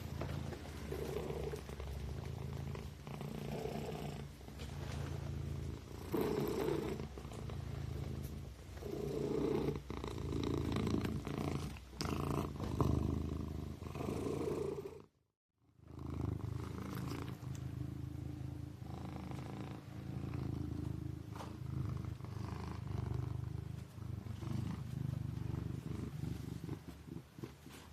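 Kitten purring steadily, swelling and easing with each breath every two to three seconds. The sound cuts out briefly about halfway through.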